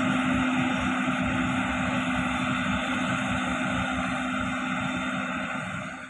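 Diesel engine of a heavy road-building machine (motor grader or road roller) running steadily with a low hum. It fades away near the end.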